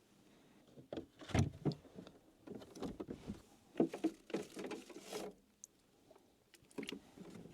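Irregular knocks, clunks and rustling of things being handled and moved about, with a short pause about three quarters of the way through.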